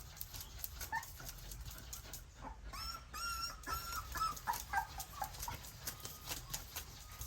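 Nursing puppies giving short high-pitched whimpers and squeaks, with a cluster of them in the middle, over quick wet clicking from suckling.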